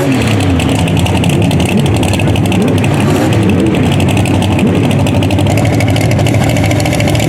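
Car engines running at a steady, loud level.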